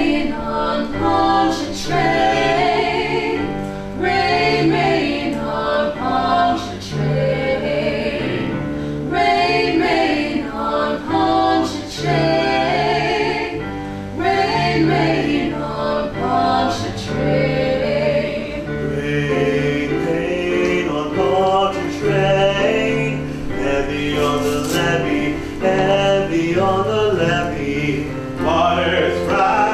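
Ensemble of mixed voices singing a choral song in a musical, with instrumental accompaniment.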